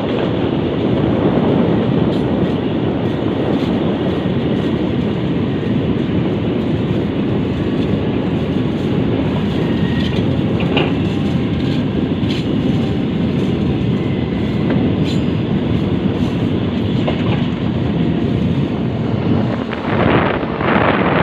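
Ballast regulating machine running along the railway track: a steady, dense rumble of engine and rail noise with scattered short clanks and clicks.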